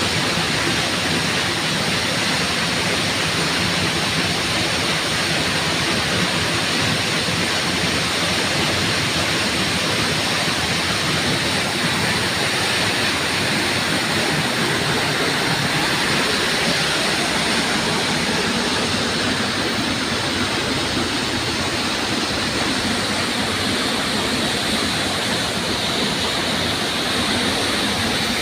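Waterfall, water pouring and splashing in a steady, even rush.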